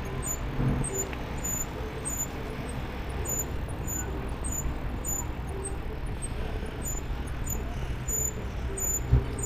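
Riding noise of an e-bike: steady wind rumble on the camera microphone with tyre and road noise, and a single short knock from a bump near the end.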